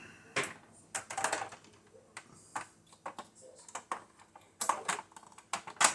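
Hard plastic parts of a 1986 Cobra Night Raven toy jet clicking and tapping as they are handled and pushed together: a string of sharp, irregular clicks, the loudest near the end.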